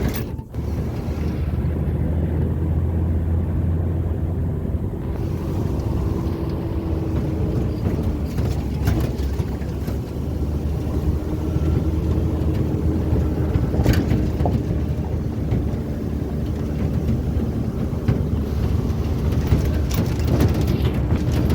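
Steady hum of a moving vehicle's engine and road noise, with a low, even engine tone. It drops out briefly about half a second in.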